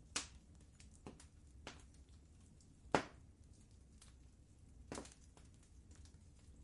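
Wood fire crackling softly in a fireplace, with scattered sharp pops, the loudest about three seconds in, over a low steady rumble.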